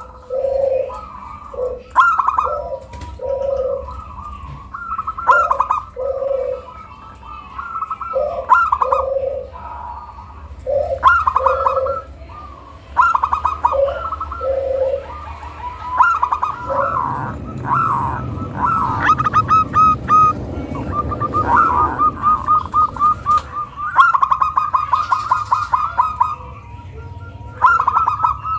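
Zebra dove (perkutut) cooing, used as a lure call to set other perkutut singing: repeated short phrases of soft rolling coo notes. About halfway through, the coos quicken into a long run of rapid notes over a low rushing noise.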